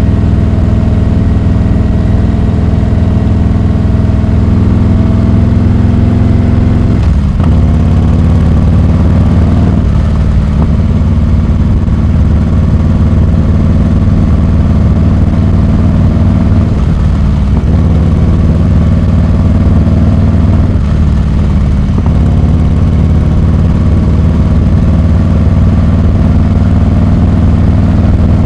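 Harley-Davidson Heritage Classic 114's Milwaukee-Eight 114 V-twin running loud through a Rinehart exhaust. The note dips and steps briefly four times, about seven, ten, seventeen and twenty-one seconds in.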